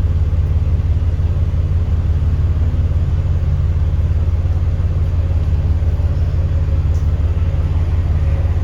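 Alexander Dennis Enviro400 double-decker bus engine running at a steady low rumble, with no change in revs.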